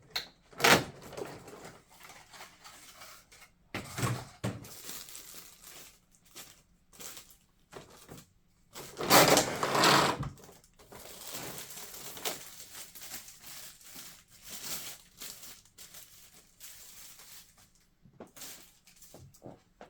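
Hands handling packaging and model parts: irregular rustling and crinkling with a few short knocks, the loudest stretch about nine to ten and a half seconds in.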